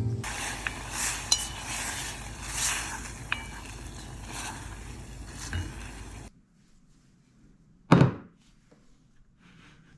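Kitchen dishes and utensils clinking sharply several times over a steady hiss, which stops abruptly about six seconds in; a single loud thump follows near the end.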